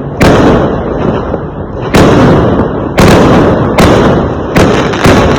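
Fireworks exploding: about six sharp bangs, coming roughly every second, over a continuous low rumble of further bursts.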